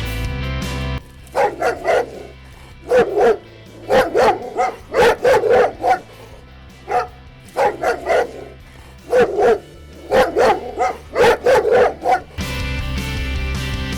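A dog barking over and over, in quick runs of two or three barks. Background music stops about a second in and starts again near the end.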